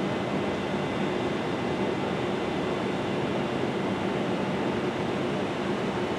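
NJ Transit train running with a steady rumble and an even hum of a few low tones, unchanging throughout.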